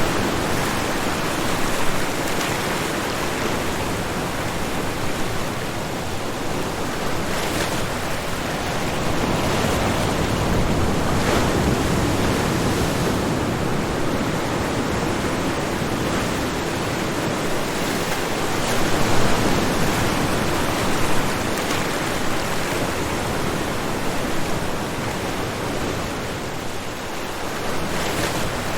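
Ocean surf breaking on a shoreline: a continuous wash of waves that swells and eases slowly, with a few louder crashes.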